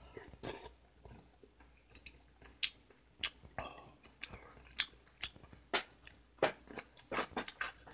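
Close-miked eating sounds: irregular wet smacks and chewing of a spoonful of seaweed soup with rice, then kimchi bitten and chewed near the end.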